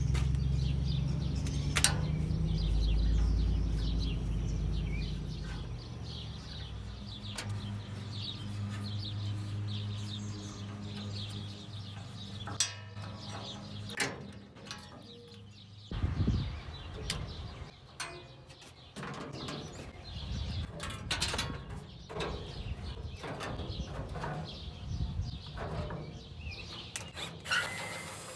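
Scattered clicks and knocks from an old furnace being taken apart, with birds chirping in the background. A low rumble runs through the first few seconds.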